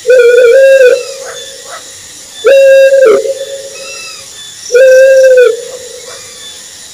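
Owl hooting: three loud, drawn-out hoots, each just under a second long and about two seconds apart, the first slightly wavering in pitch. Fainter, higher calls sound between them.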